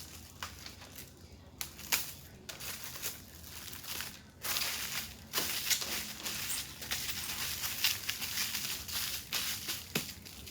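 Plastic wrap crinkling and rustling as it is folded around a mound of cookie dough, with a few sharp ticks; the crinkling gets louder about four seconds in and eases off near the end.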